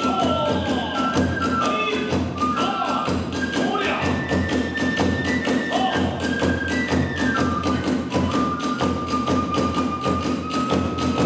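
Kagura hayashi accompaniment in the fast Hiroshima eight-beat (hatchōshi) style: a bamboo transverse flute plays long held notes that step between pitches. Under it run steady rapid beats of the drums and small hand cymbals.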